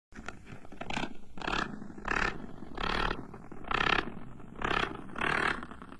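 An animal's rasping growls, repeated in a steady series a little faster than one a second.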